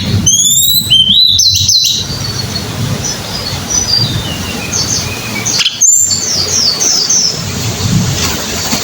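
A tledekan gunung singing: a loud run of quick, rising whistled notes in the first two seconds, another loud phrase about six seconds in, and fainter short chirps between.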